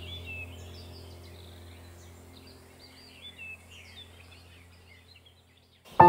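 Small birds chirping and twittering in quick, high, gliding notes, with a low steady music drone fading out beneath them over the first couple of seconds. Everything almost drops out just before the end.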